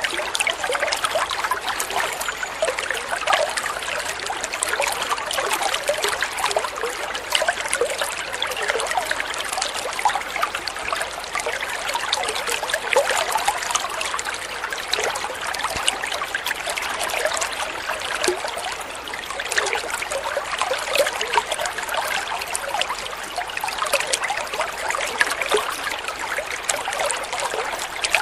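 Water flowing and trickling steadily, with a constant patter of small splashes and gurgles.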